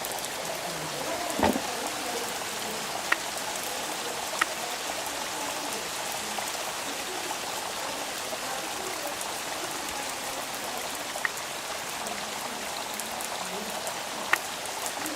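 Steady rain falling, an even hiss with a few sharp single drop taps now and then. A dull knock stands out about a second and a half in.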